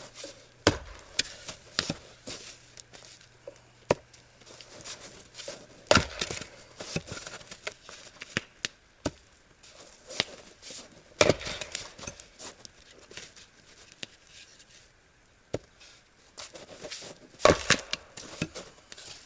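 Axe splitting firewood logs: four heavy chopping strikes about five seconds apart, with smaller knocks and clatter of wood being handled between them.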